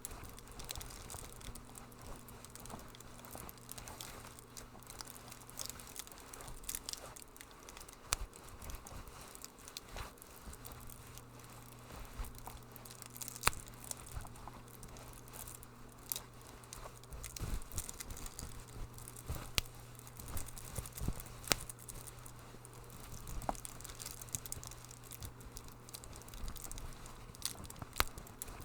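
Wood fire crackling in a fireplace, with irregular sharp pops scattered throughout over a steady low hum.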